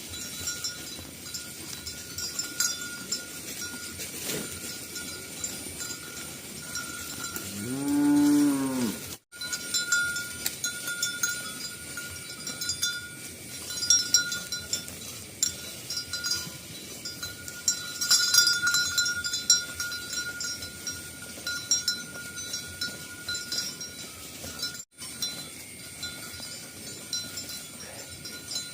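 A herd of cattle on the move: one cow gives a single long moo about eight seconds in, over steady clinking and ringing of cowbells.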